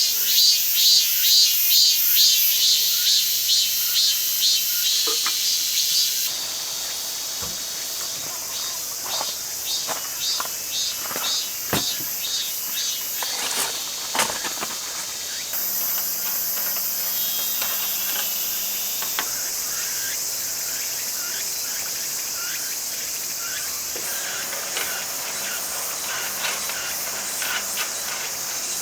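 Crickets and other insects chirping in a pulsing chorus, the pattern of the chirps changing twice. A few light clicks and knocks sound in the middle.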